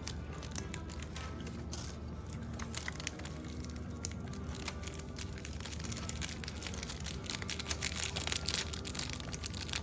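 Paper fries bag crinkling and rustling in irregular crackles, heavier in the second half, over faint background music.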